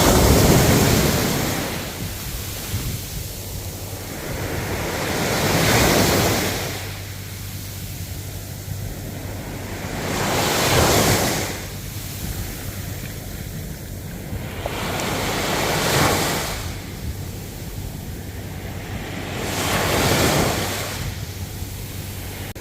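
Ocean waves breaking, five in turn, one about every five seconds, each swelling into a loud hiss of surf and then fading.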